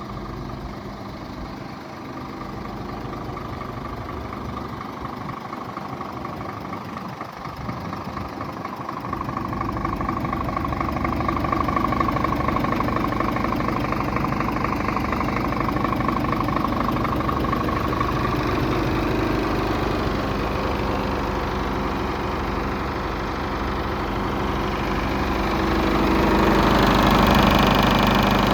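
Scania R450 tractor unit's 13-litre six-cylinder diesel engine idling steadily, growing louder about ten seconds in and again near the end.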